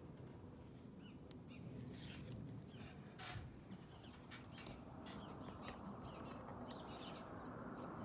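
Faint bird chirps now and then over a low, steady background hiss, with no barking.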